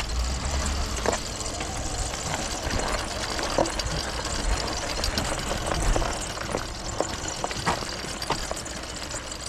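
Pickup truck engine running as the truck drives along a rough dirt track, heard with frequent knocks and rattles.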